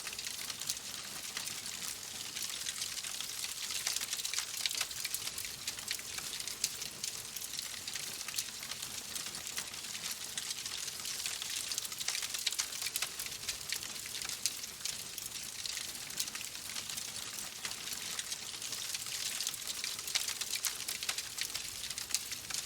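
Steady rain falling: an even hiss of rainfall dotted with many small, sharp drop ticks.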